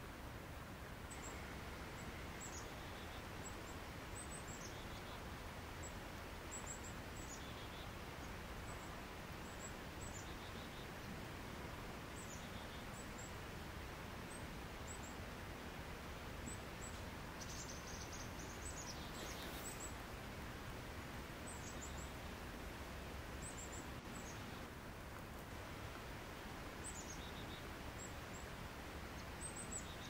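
Steady outdoor hiss with small birds giving short, high, falling chirps every second or two, briefly more often about two-thirds of the way through.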